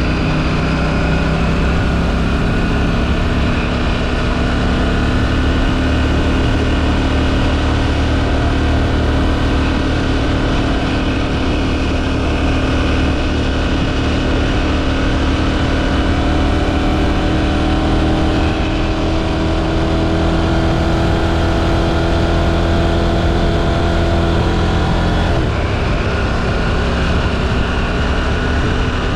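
KTM 790 Duke's parallel-twin engine, stock exhaust, running under way with its pitch climbing slowly. About 25 seconds in the pitch drops abruptly, then holds steady. Wind rush on the helmet-mounted microphone sits underneath.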